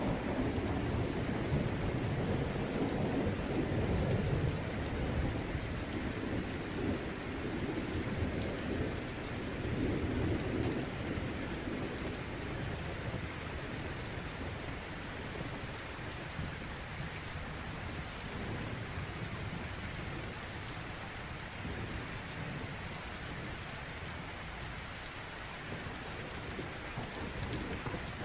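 Steady heavy rain, with a low rumble of thunder through roughly the first ten seconds that then fades away.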